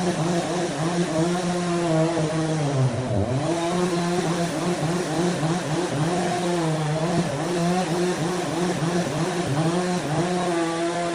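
A handheld power tool running at high speed, its pitch sagging and recovering again and again as it is loaded, dropping sharply about three seconds in.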